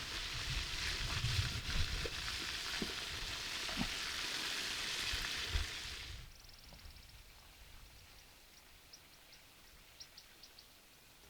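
Food deep-frying in hot oil, a dense sizzle that cuts off suddenly about six seconds in; afterwards only faint high ticks.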